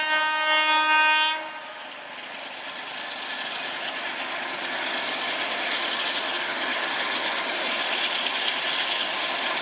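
A train horn blowing one steady note that cuts off about a second and a half in, followed by the steady noise of a moving train that slowly grows louder.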